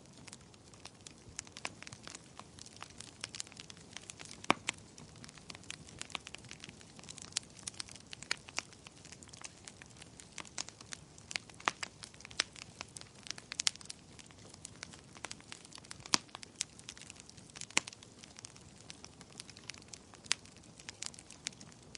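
Wood fire crackling: irregular sharp pops and snaps, several a second and uneven in loudness, over a faint steady hiss.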